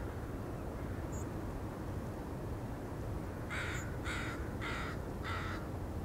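A bird calling four times in harsh, even calls about half a second apart, over a steady low background rumble. A faint high chirp comes about a second in.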